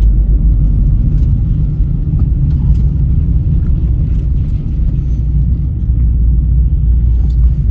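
Vauxhall Meriva B automatic on the move, heard from inside the cabin: a steady low rumble of engine and road noise.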